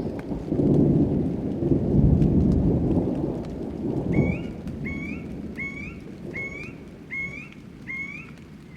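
Thunderstorm: a long, loud rumble of thunder peaks about two seconds in and fades by about four seconds, over steady rain. In the second half, a short rising chirp repeats about every half second.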